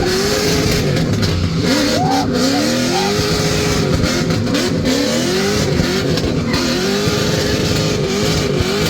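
LS-swapped BMW E46 drift car's 4.8-litre V8 with a stage 2 cam and long-tube headers, heard from inside the car during a drift run. The engine revs up and down over and over, loud throughout.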